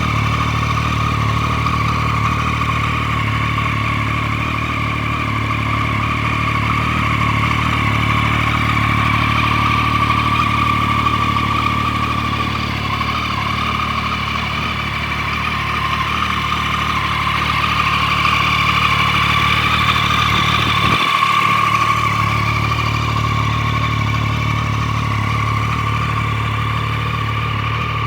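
Triumph Street Triple 675R's 675 cc inline three-cylinder engine running steadily at idle.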